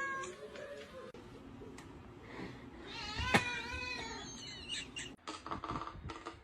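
Cat meowing: a short meow at the start and a longer, louder meow about three seconds in, with a sharp click in the middle of it. A run of clicks and knocks follows near the end.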